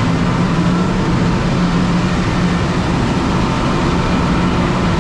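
Grain dryer running: a loud, steady mechanical noise with a low hum and a faint higher whine.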